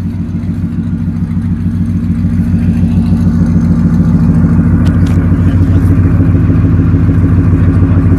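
2006 Ford Crown Victoria Police Interceptor's 4.6-litre V8 running steadily through long tube headers, an X pipe and Flowmaster Outlaw racing mufflers, with a deep, loud exhaust note that grows gradually louder.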